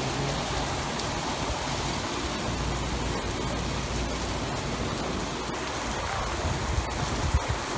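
Steady rain falling in the wind, with a low wind rumble and a few faint sharp ticks of drops.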